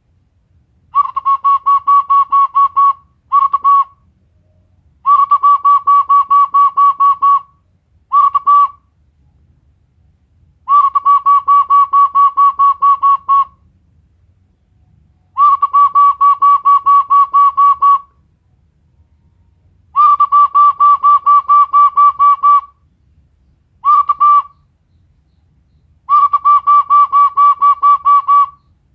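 Homemade bird whistle imitating a zebra dove's (perkutut) call. It is blown in runs of quick pulses at one steady pitch, about five a second. Most runs last two to three seconds, with a few short half-second bursts between them.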